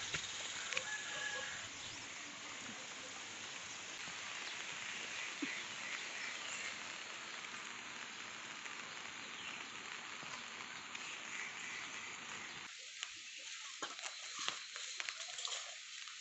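Steady rain falling on a wet slate roof, an even hiss. Near the end the sound cuts to a quieter bed with scattered clinks of steel dishes being washed.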